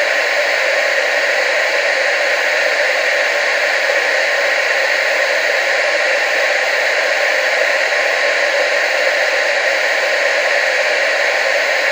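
Analogue TV static: a steady, even hiss with most of its energy in the middle and upper range and little bass.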